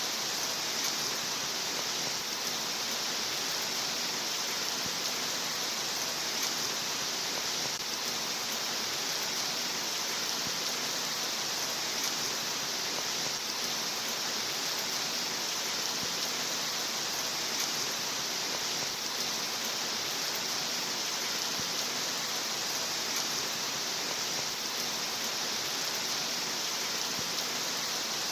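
Steady rain falling, a dense, even hiss that stays level throughout.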